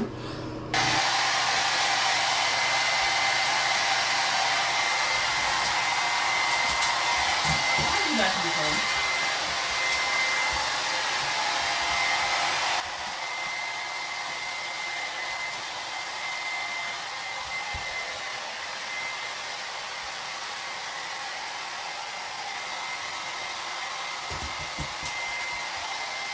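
Handheld hair dryer switches on about a second in and blows steadily, with a thin high whine over the rush of air, as a freshly bathed dog is blow-dried. About thirteen seconds in it drops suddenly to a quieter level and keeps running.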